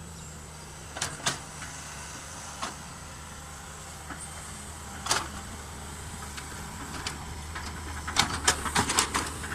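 Excavator's diesel engine running steadily at low revs, with scattered sharp metallic knocks and clanks, several in quick succession near the end.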